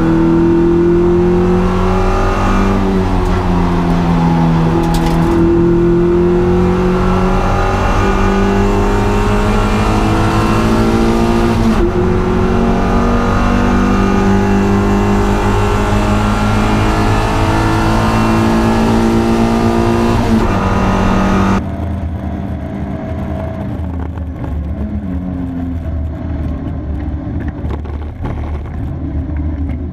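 Honda Integra DC2's four-cylinder engine driven hard on track, its pitch rising and falling as it revs up through the gears and back down. About 21 seconds in the sound suddenly becomes quieter and duller.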